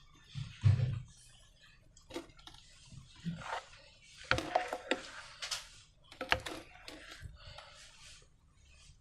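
Slime being handled and squeezed: irregular sticky clicks and short crackly squelches, after two soft low thumps at the start.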